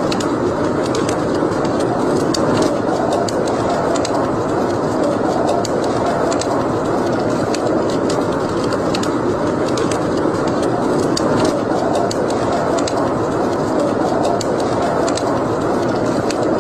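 Fire burning in a fireplace: a steady rushing of flames with frequent small, irregular crackles and pops.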